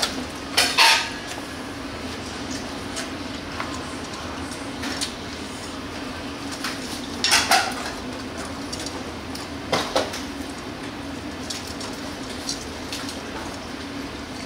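Metal kitchenware clattering in short bursts over a steady low hum. There are three bursts: about a second in, around seven and a half seconds, and near ten seconds.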